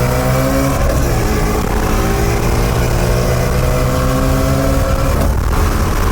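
Single-turbo 2JZ inline-six in a Lexus IS300 pulling hard under acceleration, running on wastegate boost only. The engine note climbs steadily, drops at a gear change under a second in, climbs through one long gear, and drops again at another shift near the end.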